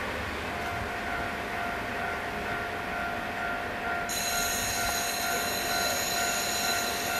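Train moving slowly through the station with steady, high-pitched wheel squeal over a low rumble. A set of higher squealing tones joins suddenly about four seconds in.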